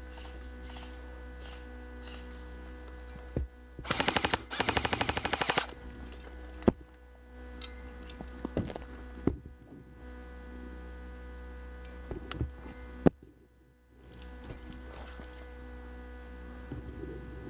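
Airsoft gun firing on full auto: two rapid bursts close together about four seconds in, then a few single sharp snaps. A steady hum runs underneath.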